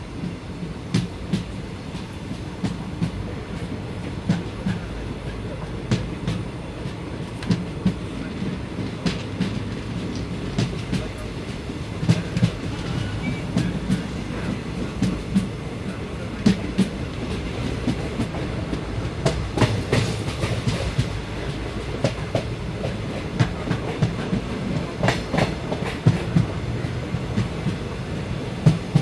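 Train running along the track, heard from on board: a steady low rumble with irregular clicks and knocks from the wheels passing over rail joints.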